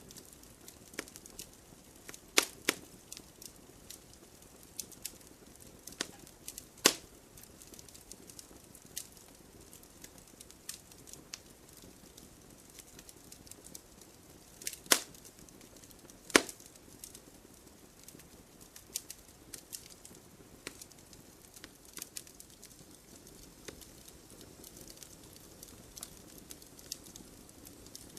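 Wood campfire crackling: a soft hiss of burning with irregular sharp pops and snaps from the wood. The loudest snaps fall about two and a half seconds in, near seven seconds, and as a pair around fifteen and sixteen seconds.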